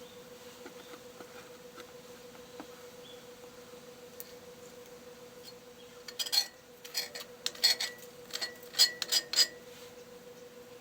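A quick run of metallic clinks and clatters with a short ringing after each, as metal parts or tools are handled, starting about six seconds in and lasting about three seconds, over a faint steady hum.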